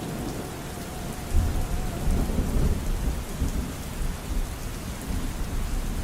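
Steady rain falling, with a deep rumble of thunder that swells about a second and a half in and rolls on.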